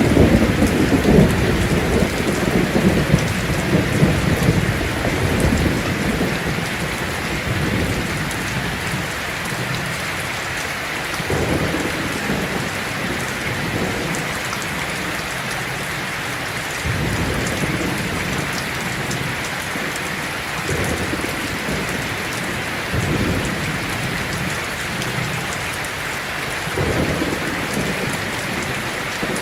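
Heavy rain falling steadily on a tin roof, with thunder: a long rolling rumble at the start that fades over the first several seconds, then shorter, fainter rumbles every few seconds.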